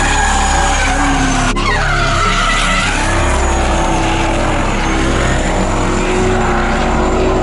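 Drift cars on track: engines revving under load with tyres squealing as they slide, in two clips with a cut about a second and a half in.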